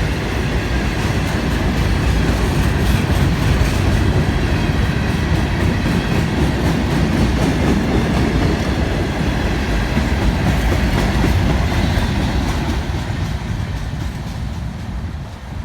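A Florida East Coast Railway freight train's cars rolling past close by, with a steady loud rumble of wheels on rail. It eases off over the last few seconds as the end of the train goes by.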